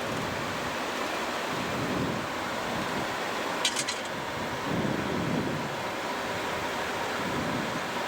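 Steady rush of air noise on a Boeing 737-700 flight deck during approach, with the landing gear down and flaps extended. A faint steady tone runs underneath, and a brief burst of sharp clicks comes about three and a half seconds in.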